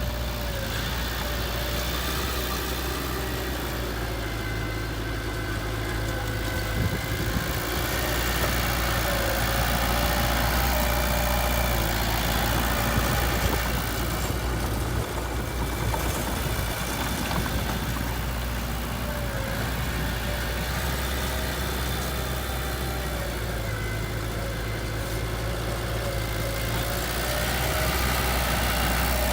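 Heavy machinery's diesel engine running steadily at low revs, with a little swell in level a few times.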